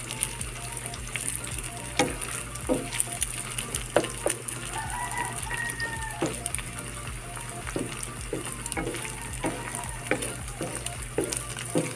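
Diced meat sizzling in hot oil in a nonstick frying pan, with a wooden spatula clicking and scraping against the pan at irregular moments as the pieces are stirred.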